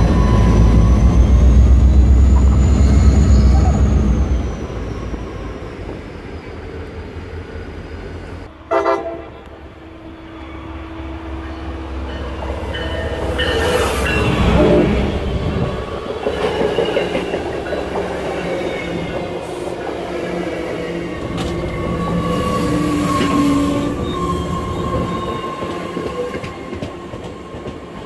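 CSX EMD GP40-2 diesel locomotive passing close, its 16-cylinder two-stroke engine making a loud low rumble for the first few seconds. Then an MBTA commuter train's bilevel coaches roll past with steady wheel and rail noise, rising to a peak about halfway through, with a horn sounding briefly.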